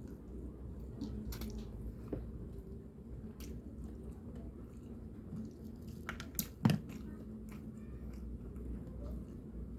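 A person chewing and eating egg noodles with rice, with small wet mouth sounds and scattered clicks, and one louder sharp click about two-thirds of the way in.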